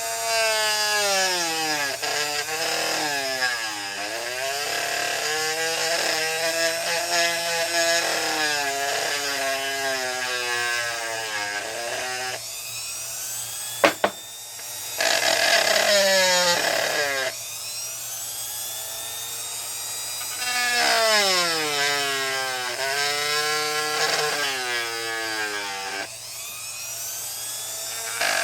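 Dremel rotary tool with a round bit grinding out a mold cavity, its whine repeatedly sagging and climbing in pitch as the bit is pressed in and eased off, with a few short breaks and one sharp click about halfway through.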